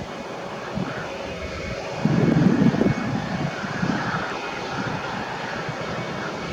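Boeing 737-800 jet airliner's CFM56-7B engines running during its landing, a steady noise that swells louder for about a second, two seconds in.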